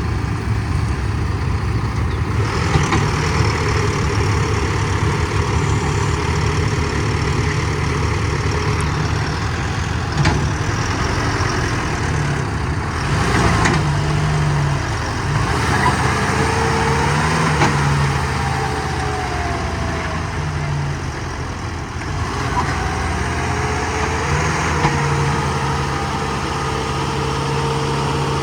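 Diesel tractor engine working under load, straining to pull a trolley stuck in mud. Its pitch rises and falls as it is revved several times, with a couple of sharp knocks partway through.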